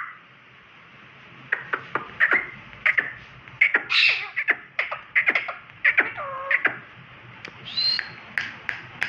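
Pet parakeet making a run of sharp clicks and short chirping squawks with quick pitch glides, scattered irregularly.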